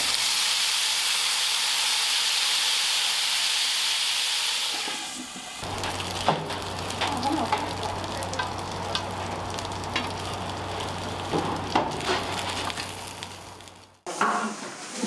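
Food frying in hot oil in a restaurant kitchen. A loud, even sizzle runs for about five seconds, then gives way to clattering utensils and lighter sizzling over a steady low hum. It breaks off abruptly near the end.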